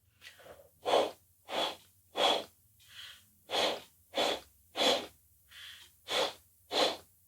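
Breath blown into cupped hands in short puffs, three to a set, as if to warm them. The set repeats every second and a half or so, each one led by a softer in-breath.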